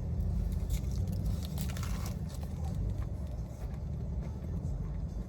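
A steady low rumble of a car idling, heard inside the cabin, with faint chewing and crunching from someone eating a chicken sandwich, most noticeable about two seconds in.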